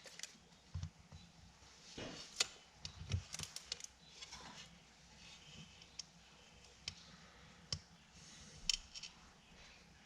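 Faint, scattered clicks and light taps of a small drill bit and metal parts being handled while it is set into the pin of a vent window handle, ready to drive the pin out.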